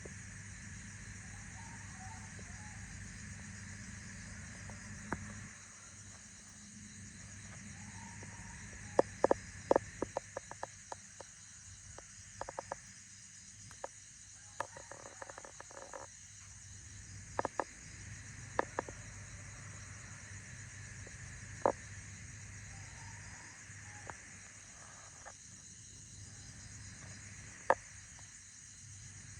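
Snails eating fresh leaves: small, sharp, irregular crunching clicks, bunched into quick clusters around ten seconds in and again near the middle, over a steady low background hum.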